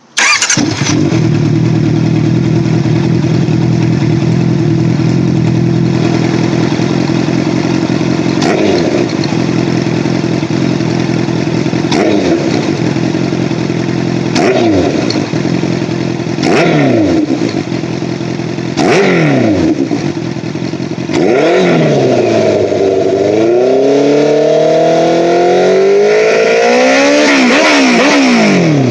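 Honda CBR650R inline-four engine through a Black Widow low-level de-cat exhaust with the dB killer fitted. It starts, idles steadily, gets about five short blips of the throttle that rise and fall, then is held at higher revs that waver up and down near the end.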